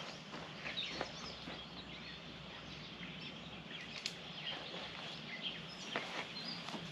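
Outdoor ambience: a steady background hiss with small birds chirping now and then, and a few light clicks.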